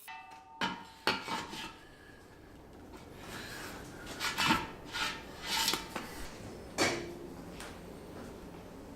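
Objects being handled: irregular knocks and scraping, with a short ringing tone at the very start.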